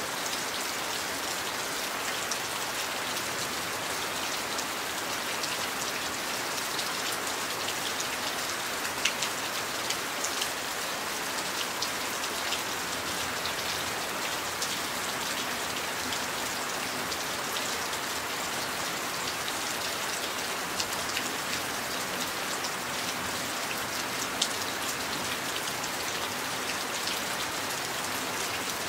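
Steady rain falling, with scattered sharper drops striking close by now and then.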